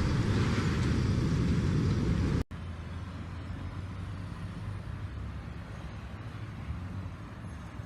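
Strong sandstorm wind: a loud, even rushing noise that cuts off abruptly about two and a half seconds in, giving way to a quieter, low rumble of wind.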